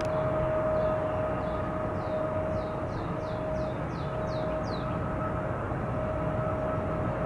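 Steady jet aircraft engine noise with a constant whine. Over it a bird sings a run of quick descending chirps that grow louder and faster, then stop about five seconds in.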